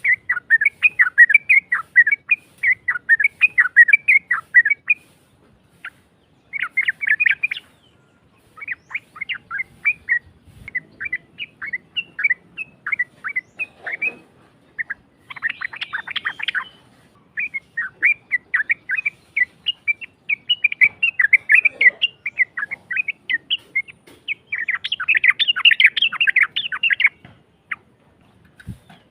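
Yellow-vented bulbul (trucuk) singing: rapid runs of short, harsh chattering notes, a few seconds at a time with brief gaps. This is the long, rough-voiced 'uplik' song used as a lure recording to make other trucuk answer.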